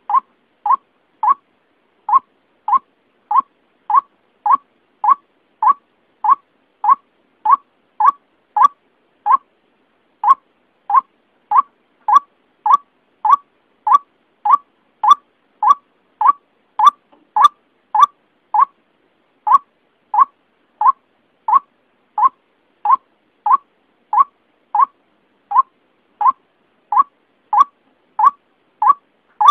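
White-breasted waterhen's repeated call, used as a lure for bird trapping: short notes a little under two a second, in long runs broken by brief pauses.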